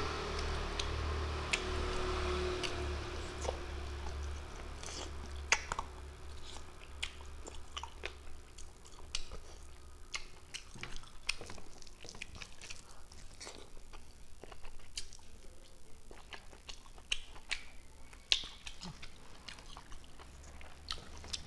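Close-miked chewing and lip-smacking of a man eating rice and curry: an irregular string of short, wet mouth clicks and smacks.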